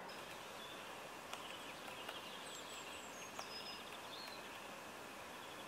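Faint woodland ambience with a few thin, high bird chirps, most of them about halfway through.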